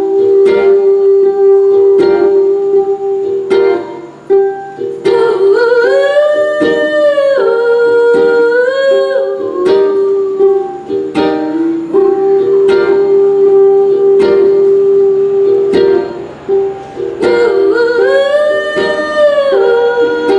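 Ukulele strummed in a steady rhythm through an instrumental break, with a wordless vocal line that rises and falls twice, about five seconds in and again near the end.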